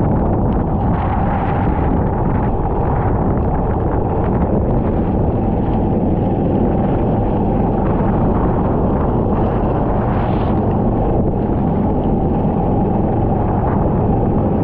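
Racing kart running on track, its engine noise buried in heavy wind buffeting on the onboard microphone; a steady, loud, rumbling noise.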